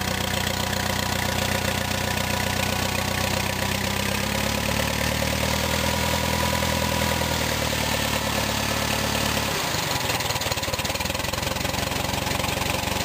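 1952 Case VAC tractor's 124 cubic-inch four-cylinder overhead-valve engine running steadily at about quarter throttle, just restarted without choke. Its note changes abruptly about two-thirds of the way through.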